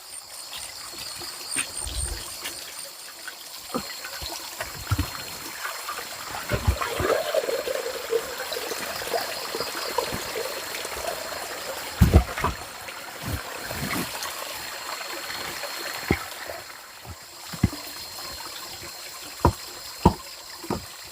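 Water trickling steadily, with scattered knocks and clicks; the loudest pair comes about twelve seconds in.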